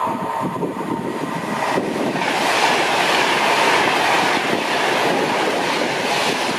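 Train running through a railway station: wheel-on-rail noise swells about two seconds in and stays loud.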